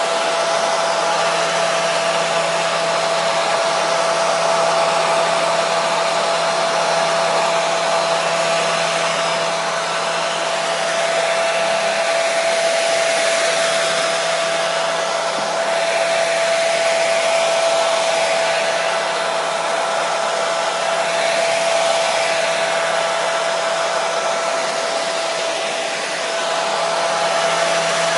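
Hair dryer blowing steadily: an even rush of air with a steady motor whine, running continuously as white noise for soothing a baby to sleep.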